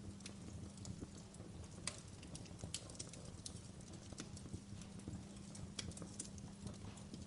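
Wood fire crackling in a fireplace: irregular sharp pops and snaps, a few louder than the rest, over a steady low hum.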